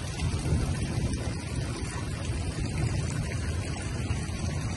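Rain falling on a flooded street, a steady hiss over a continuous low rumble.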